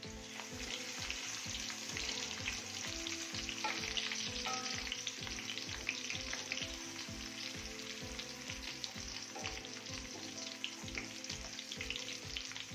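Crushed ginger and garlic sizzling with browned onions in hot ghee, with a steady crackle throughout. A wooden spatula stirs and scrapes them around an aluminium pot.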